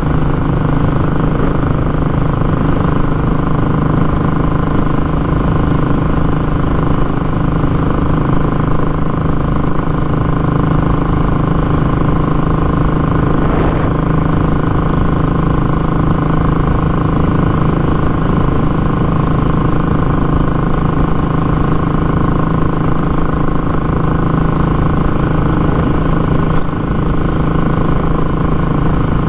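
Royal Enfield Classic 500 single-cylinder engine running through a short, raw exhaust, holding a steady engine speed with no change in pitch.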